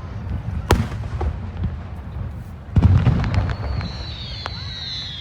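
Fireworks going off over a low steady rumble. A sharp bang comes under a second in, and a louder burst with a quick crackle follows near three seconds. After it come several high whistles that slowly fall in pitch.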